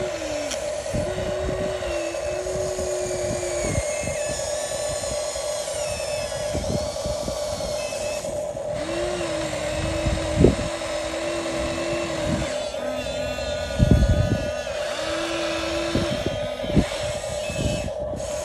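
Electric gear motors of a Huina 1573 RC excavator whining: a steady high hum under a lower motor note that starts and stops in spells as the functions are worked, with a few sharp clunks, the loudest about fourteen seconds in.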